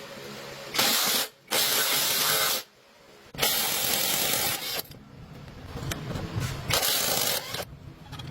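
A hissing jet turned on and off in four bursts of about a second each, each one starting and cutting off abruptly.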